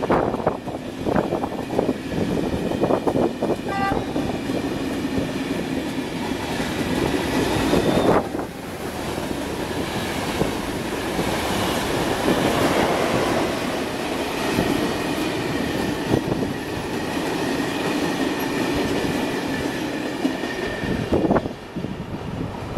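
Train passing on the line: wheels click over the rail joints in the first few seconds, then a steady rolling rumble with a faint whine, easing off near the end.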